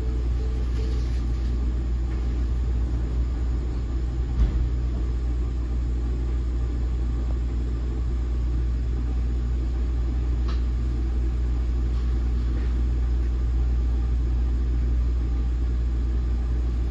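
Steady low rumble inside an NJ Transit Multilevel passenger coach running on the rails, with a single sharp knock about four and a half seconds in.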